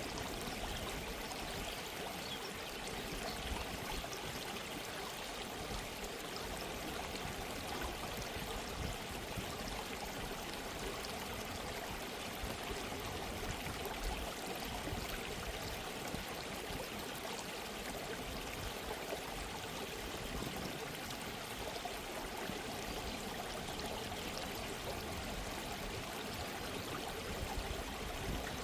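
A gently flowing stream: a steady babble of running water.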